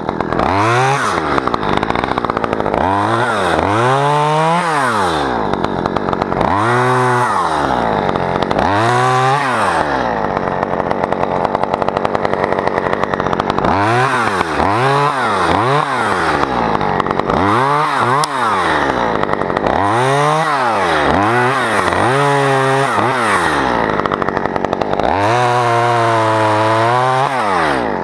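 Chainsaw cutting spruce, its engine revving up and falling back again and again, about a dozen times, and held high for a few seconds near the end.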